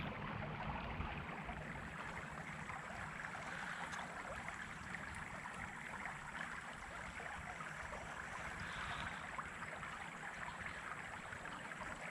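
Creek water running, a steady hiss with no change in level.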